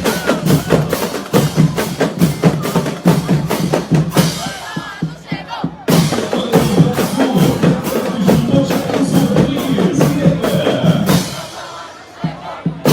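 Marching band drum line playing a fast cadence on snare and bass drums. The drumming thins out briefly about four seconds in and dips again near the end.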